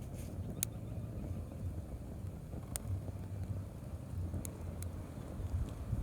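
Wind buffeting the microphone with a low rumble. Over it, a few sharp pops and crackles come from a burning campfire, about three over the few seconds.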